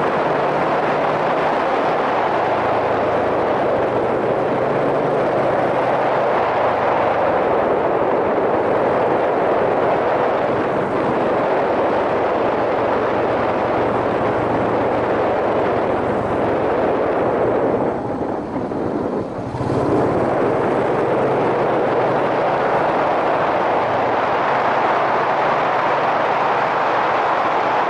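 Yamaha SRX400 single-cylinder engine running on the move, heard through heavy wind noise on a helmet-mounted microphone, its low note shifting in pitch a few times. The wind noise drops briefly about eighteen seconds in.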